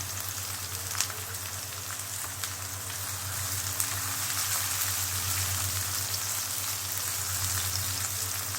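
Hot oil sizzling in a frying pan with sliced red pepper, onion and seafood: a steady frying hiss with a couple of sharp crackles.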